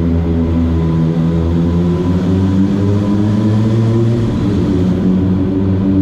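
Kawasaki ZX-25R's 250 cc inline-four engine running at low, even revs under way, its pitch wandering gently up and down.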